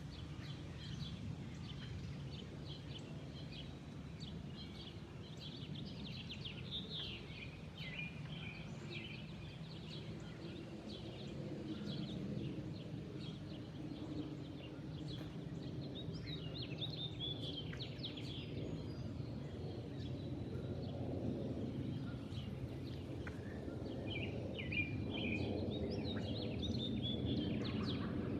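Jet engine rumble from a UPS Boeing 767-300 flying overhead, a low steady roar that slowly grows and is loudest over the last few seconds. Birds chirp on and off throughout.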